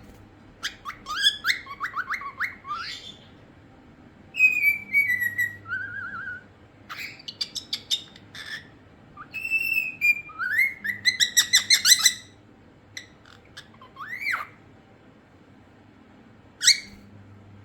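Cockatiel whistling and chirping in short phrases. There are runs of quick rising chirps, a longer falling whistle about four seconds in, and a fast series of repeated chirps around eleven to twelve seconds.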